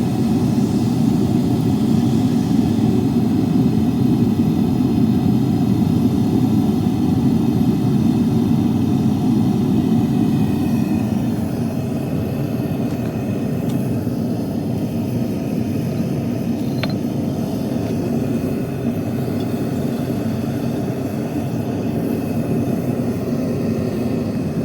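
Steady roaring rumble of a melting furnace's burner running without a break, easing off slightly about halfway through.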